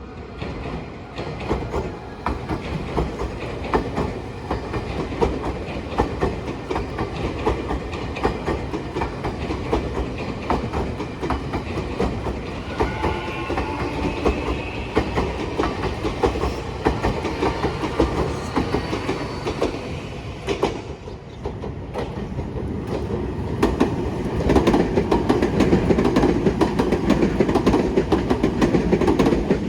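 Nankai Line electric train running on the rails, its wheels clattering steadily over the rail joints, growing louder in the last few seconds.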